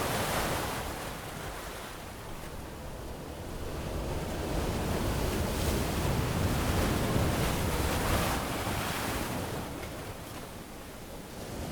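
Ocean waves washing onto a beach, the surf rising and falling in slow surges: one wash at the start, a longer swell in the middle, easing off near the end.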